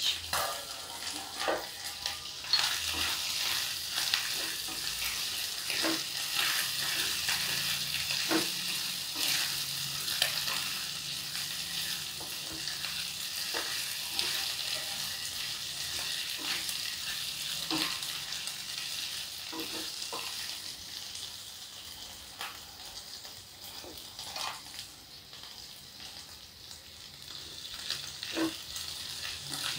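Potato cubes sizzling steadily in hot oil in a nonstick kadhai, stirred with a wooden spatula that scrapes and knocks against the pan now and then. The sizzle is a little quieter in the last few seconds.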